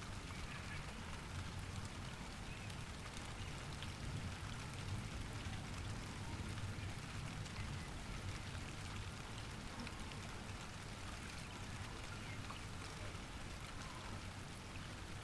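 Light rain falling steadily, a fine patter of raindrops over a constant low hum.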